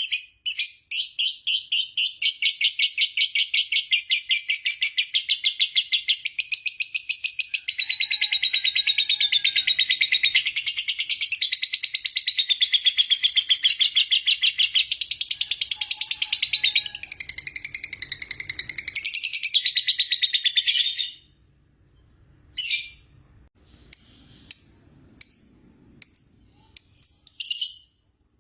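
Lovebird's long 'ngekek' chatter: a fast, unbroken run of shrill repeated notes lasting about twenty seconds. It stops abruptly and gives way to a few separate short calls near the end.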